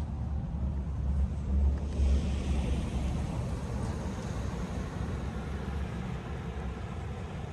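A car driving past on the street: a low rumble that is loudest about two seconds in, with tyre hiss swelling and then fading.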